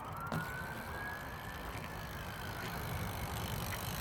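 Siren wailing in the distance: a single thin tone that dips, then slowly rises and fades out a little past the middle, over a low outdoor rumble.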